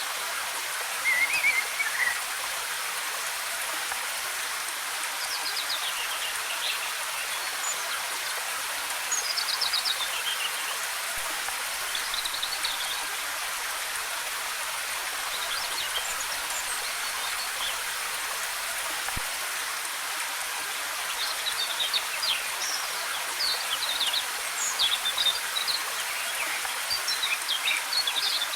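Steady rush of a waterfall's cascading water, with small songbirds chirping on and off over it in short, quick phrases, more often near the end.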